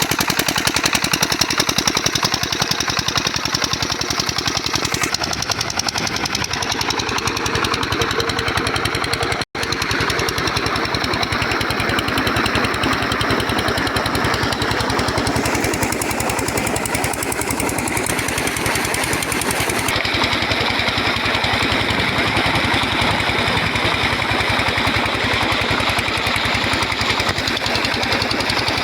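Stationary diesel engine driving a water pump, running steadily with a fast, even knocking beat. The sound cuts out for an instant about nine and a half seconds in and then resumes.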